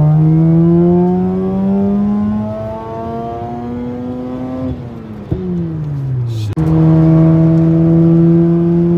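2008 Mazda RX-8's two-rotor Renesis rotary engine pulling hard through an aftermarket mid-pipe and exhaust, its pitch climbing steadily for about five seconds. The pitch then falls away off the throttle, and after a sudden break the engine runs on at a steady, slowly rising pitch.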